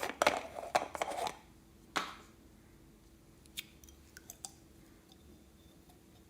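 Slime being worked by hand: a quick run of sharp crackly clicks in the first second and a half, another crackle about two seconds in, then a few faint ticks.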